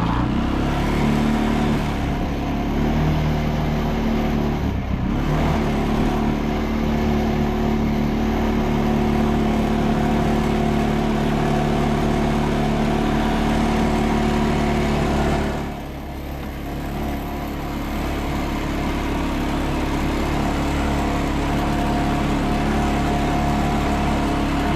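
CFMOTO CForce ATV engine running steadily while riding, with the throttle eased off briefly about two-thirds of the way through and then brought back up.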